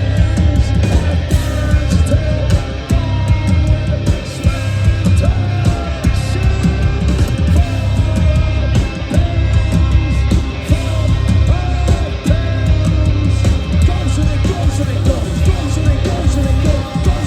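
A live punk rock band playing loud: distorted guitars over heavy bass and drums.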